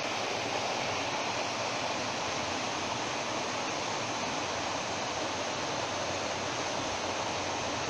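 Swollen, fast-flowing floodwater rushing in a steady, unbroken hiss.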